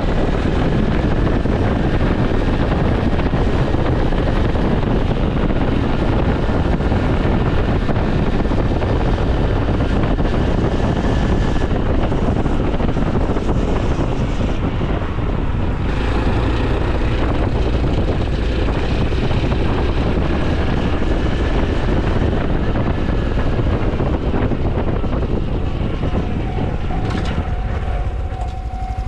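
Honda CT125 Hunter Cub's single-cylinder engine and exhaust running under way, with heavy wind rumble on the microphone. Near the end the loudness dips slightly and a steady whine comes in.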